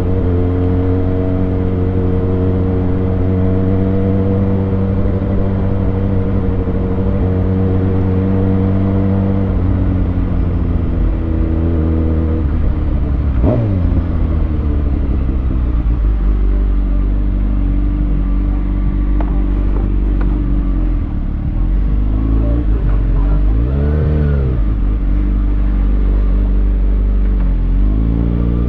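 2020 Kawasaki Ninja ZX6R's inline-four engine through a Lextek SP7C carbon exhaust with decat headers, running at steady revs while riding. A quick rev blip comes about halfway through, and the revs rise and fall briefly near the end.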